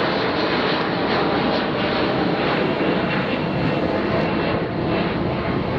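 Engine noise from a Bombardier CRJ-900ER regional jet's two rear-mounted General Electric CF34 turbofans at takeoff thrust, a steady, loud jet noise.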